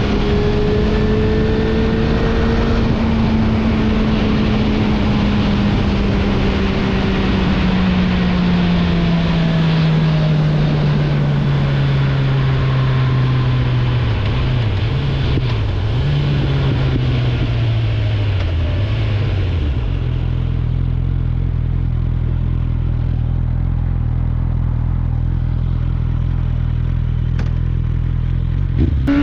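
Suzuki GSF 650 Bandit's inline-four through an Akrapovic exhaust, its note falling steadily as the bike rolls off and slows over about twenty seconds with wind rushing past. It then settles into a steady low idle once stopped, and a rev starts to rise right at the end.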